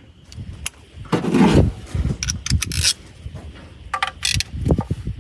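Metal tools and engine parts being handled: scattered clinks and scrapes, a short rustling burst about a second in, and a few low knocks near the end.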